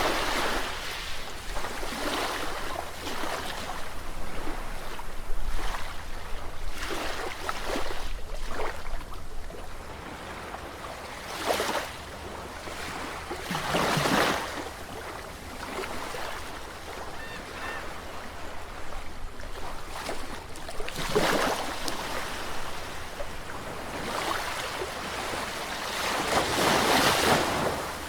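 Sea waves breaking and washing in, a steady rush with a swell every few seconds, the longest one near the end.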